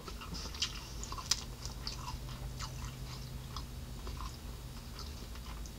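A person chewing a mouthful of sausage close to the microphone: soft, irregular mouth clicks, with one sharper click a little over a second in.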